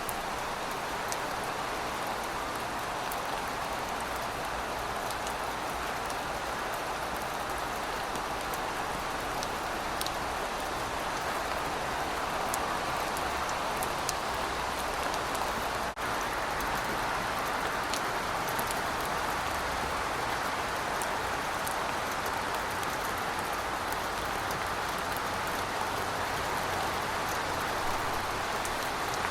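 Steady rain falling on pavement, an even hiss with scattered individual drop ticks. There is a momentary drop-out about halfway through.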